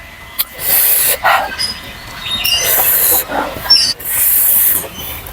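A person eating pork in gravy with rice, making three loud breathy slurping sounds, each half a second to a second long, with smaller mouth clicks between them.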